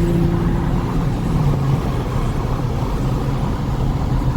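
Steady low rumble of a car. In the first two seconds a humming tone steps down in pitch and fades out.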